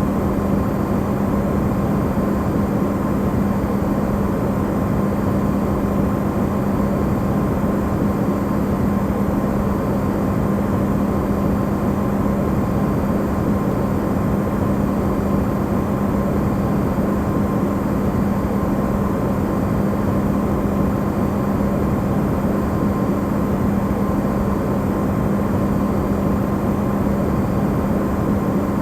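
Electrolux refrigerator running, recorded close up and amplified: a steady, even hum with a low tone held throughout.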